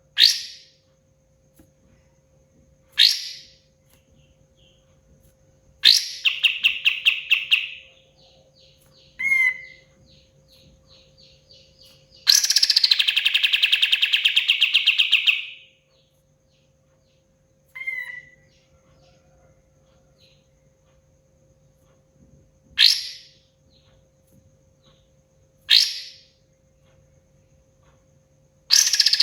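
Kapas tembak songbird singing: loud, sharp whistled notes sweeping downward, repeated every few seconds, between rapid rattling trills lasting about two and three seconds. A faint steady hum runs underneath.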